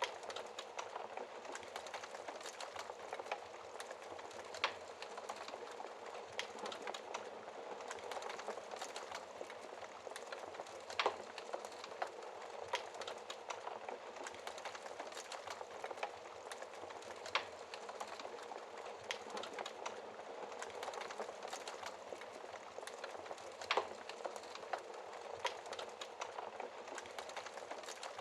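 Wood logs burning in a fireplace: a steady hiss with constant small crackles and a few louder, sharper pops, about one every six seconds.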